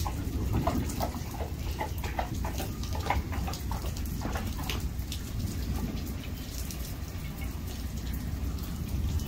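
Heavy thunderstorm rain falling, with nearby drops splashing in quick irregular ticks over the first half, fewer later, over a steady low background noise.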